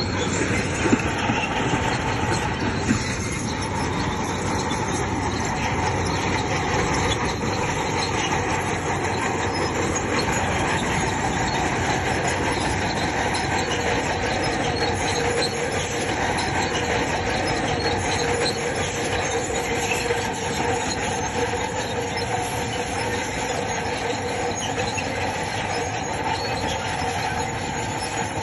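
Crawler bulldozer working: its diesel engine runs steadily while the steel tracks clank and squeal, with a few sharp knocks near the start.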